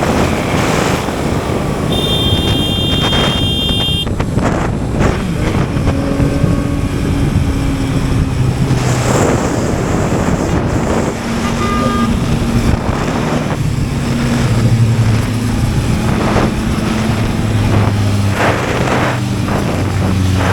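Yamaha MT-09's three-cylinder engine running under way in traffic, its low hum shifting in pitch, under heavy wind rush on the microphone. A high steady beep sounds for about two seconds near the start.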